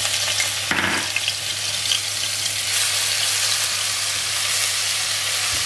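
Ginger-garlic paste sizzling in hot oil in a nonstick wok: a steady frying hiss as it is stirred with a spatula, with a brief louder burst about a second in.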